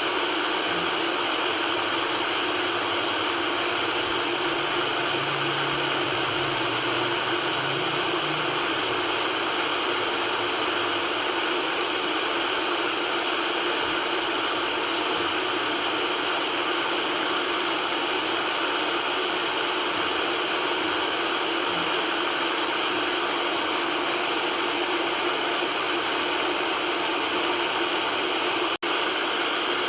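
Steady white noise: an even hiss with little bass, unchanging throughout, with a split-second dropout near the end.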